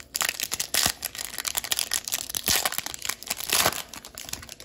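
Foil hockey card pack wrapper being torn open and crumpled, a dense crinkling and crackling with many sharp snaps.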